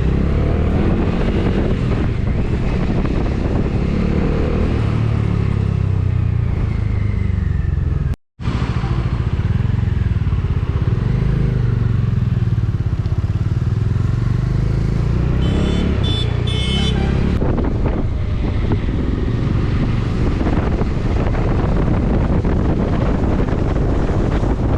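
Motorcycle engine running under way, with wind and road noise, its pitch rising and falling with speed. The sound cuts out completely for a moment about a third of the way through, and a short high-pitched sound comes in about two-thirds through.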